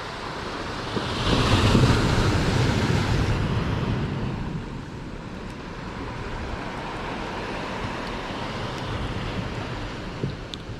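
Sea waves breaking and washing up the shore, one surge swelling about a second in and dying away by about four seconds, with strong wind buffeting the microphone.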